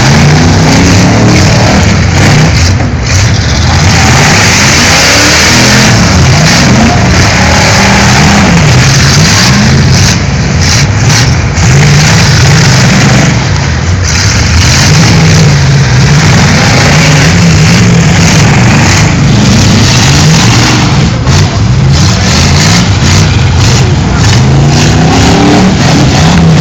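Engines of several old full-size sedans revving hard, pitch rising and falling again and again as the demolition derby cars accelerate and back up.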